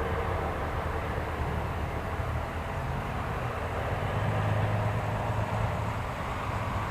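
Engines of retro and classic cars running on a parade lap: a steady low rumble that swells about four seconds in.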